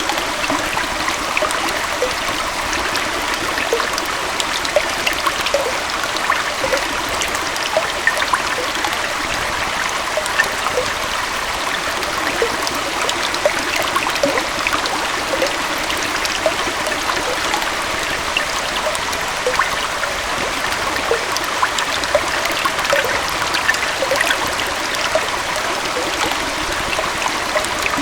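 A small waterfall and stream flowing steadily over rocks, an even rush of water with constant bubbling and trickling.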